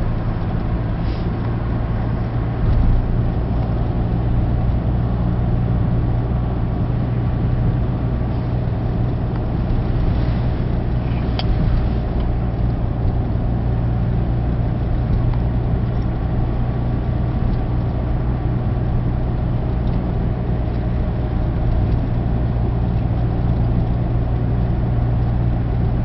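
Steady running noise of a car heard from inside the cabin while driving: a continuous low engine and road hum with no change in pace, and a faint click about eleven seconds in.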